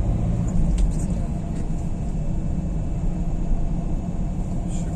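Steady low rumble of a Renault Kangoo's engine and tyres on the road, heard from inside the cabin while driving, with a couple of faint ticks about a second in.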